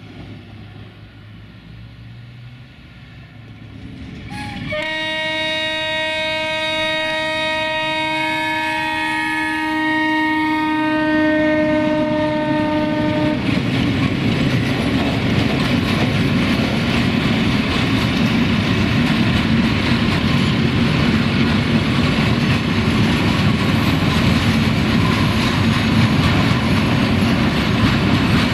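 A 060-DA (LDE2100) diesel-electric locomotive approaching with a freight train. It sounds its horn in one long steady blast of about eight seconds. Then it and its wagons pass close by, the engine rumbling and the wheels clattering over the rails.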